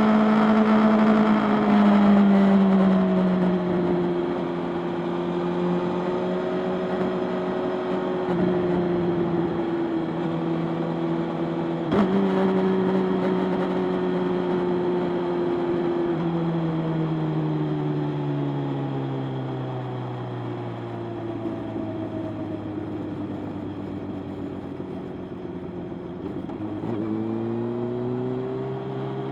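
Motorcycle engine heard while riding. It slows gradually, its note falling with a few shift steps and a sharp click about twelve seconds in, then the engine revs up and accelerates near the end.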